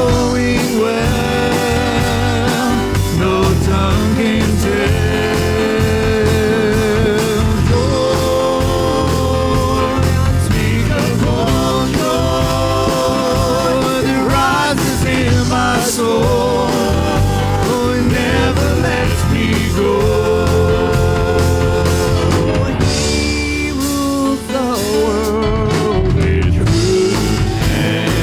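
Church worship band playing a song, with a sung melody over bass, drums and other instruments.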